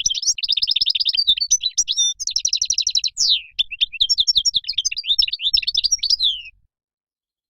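European goldfinch singing: a fast run of twittering trills and chirps that cuts off suddenly about six and a half seconds in.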